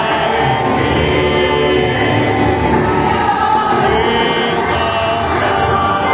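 Group of voices singing a worship song together with instrumental accompaniment, at a steady level with long held notes.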